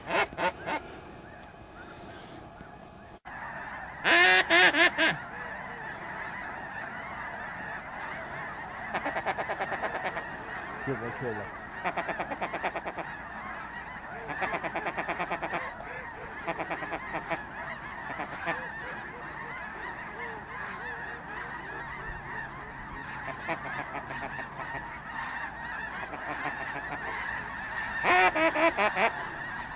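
A flock of geese honking as a steady chorus of overlapping calls, with loud, rapid runs of honks about four seconds in and again near the end.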